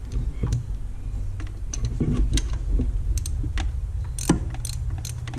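Irregular sharp metallic clicks and clinks of hand tools being handled at the engine, over a steady low hum.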